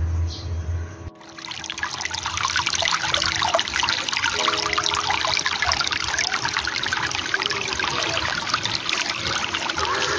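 Music for about the first second, then cuts suddenly to water trickling and splashing steadily, like a small stream running over stones.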